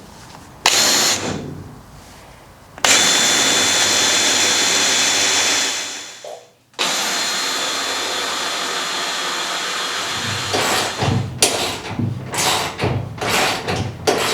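Power drill enlarging the engine-mount bolt holes, running in two long steady stretches with a sudden stop between them, then in short bursts near the end.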